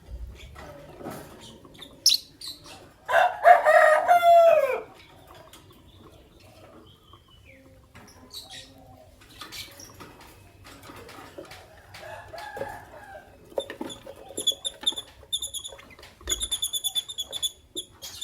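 Caged lovebirds chirping and clicking, with scattered sharp clicks and scuffles throughout. A louder, lower call of about two seconds, falling in pitch at the end, comes about three seconds in, and quick runs of high, shrill chirps repeat near the end.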